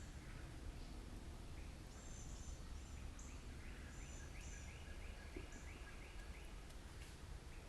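Faint evening woodland birdsong. Midway through, one bird sings a run of about eight quick repeated notes, roughly three a second, while short high calls come from another bird. A steady low rumble sits underneath.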